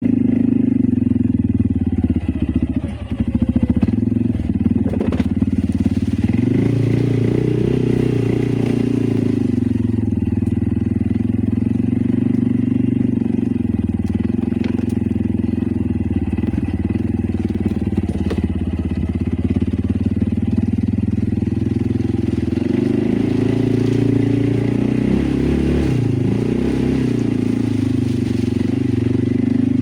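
Loncin XWolf 550L ATV engine running steadily under load, its pitch rising as it is given more throttle about six seconds in and again past the twenty-second mark.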